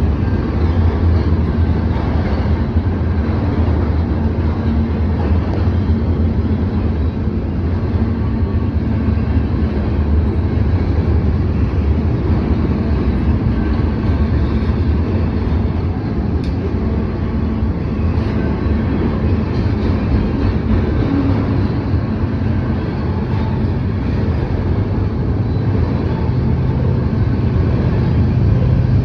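Norfolk Southern freight train rolling past with a steady low rumble and engine drone, slightly louder near the end.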